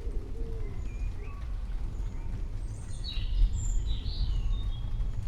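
Birds chirping and calling in short high notes, busiest around the middle, over a steady deep rumble.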